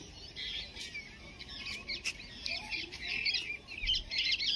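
Small birds chirping, many short calls overlapping into a continuous chatter, a little louder in the second half.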